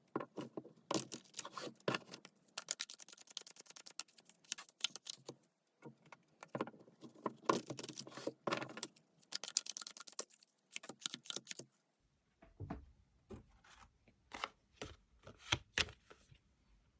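Tarot cards being shuffled and handled: dense bursts of papery clicking and rattling for about twelve seconds, then a sparser run of separate taps and knocks as the cards are handled on a surface.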